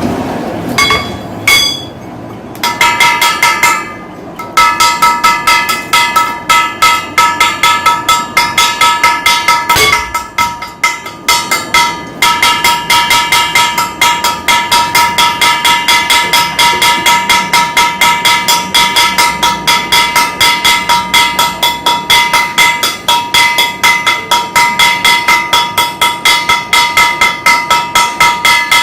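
A hammer striking ringing metal over and over, about three blows a second, each with a clear bell-like ring. After a few scattered blows and a short pause, the hammering settles into a steady rhythm.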